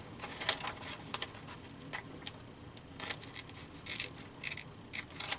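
Scissors snipping through paper in a series of short, irregular cuts as pieces are cut out of a magazine page.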